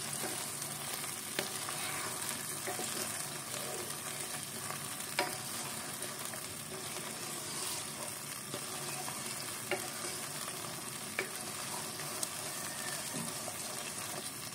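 Chicken korma with cashew-almond paste sizzling steadily in the pan as it is stirred, with a few sharp clinks of the spoon against the pan.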